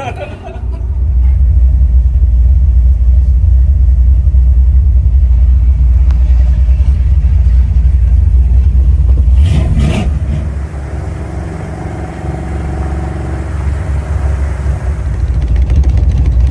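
Loud, low rumble of a vehicle engine running. It eases off after a short burst about ten seconds in and builds again near the end.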